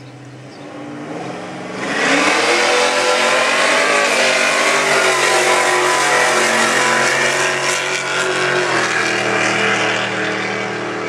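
Drag-racing cars running at full throttle down the strip. The engine pitch climbs and the sound jumps to full loudness about two seconds in. It stays loud and steady for about seven seconds, then drops back near the end.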